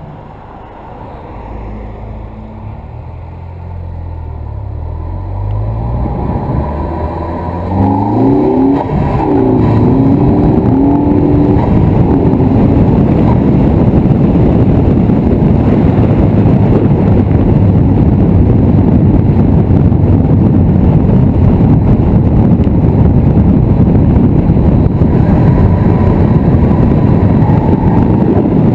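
Ford Focus ST Mk3 engine accelerating, its note climbing through the revs over the first ten seconds or so. It then gives way to a loud, steady rush of wind and road noise as the car runs at speed.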